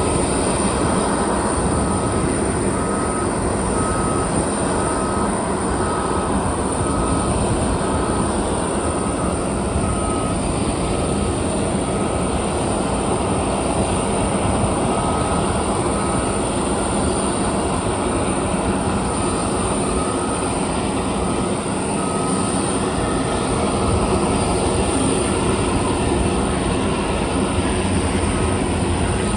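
Aircraft turbine engine running steadily, a constant high whine over a dense rushing noise.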